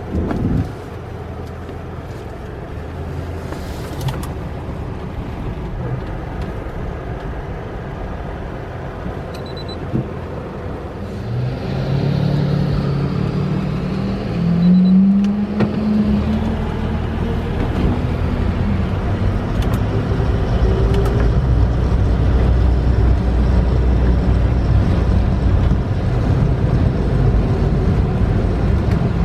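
A car's engine and road noise heard from inside the cabin while driving. About halfway through, the engine note rises as the car accelerates, then settles into a louder, steady low drone.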